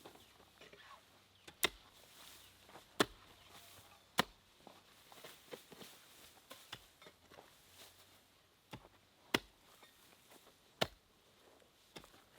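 Chopping: about seven sharp single strokes at irregular intervals, with quiet gaps between them.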